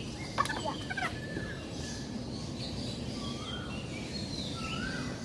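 Birds calling: a series of short calls that rise and then drop in pitch, about one a second, over a steady low background hum. A couple of sharp knocks sound in the first second.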